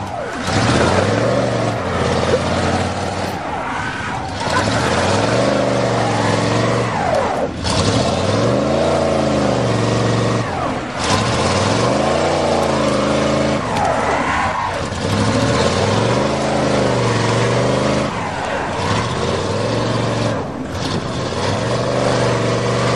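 Engines of a 1992 Dodge Caravan minivan and a 1988 Chevrolet V8 pickup held at high throttle while pulling against each other. The revs surge up and fall back again and again, every couple of seconds, as the drive wheels spin.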